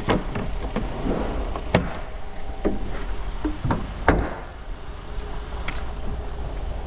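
Several sharp knocks and clunks, about five, over a steady low hum.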